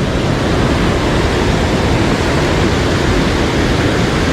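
Mountain stream rushing over rocks: a loud, steady, even rush of water.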